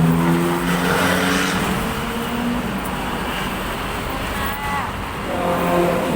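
Motor vehicle engines running close by, one fading after the first couple of seconds and another coming in about five seconds in.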